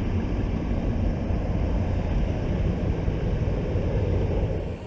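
Aircraft engines giving a steady low rumble, which cuts off suddenly near the end.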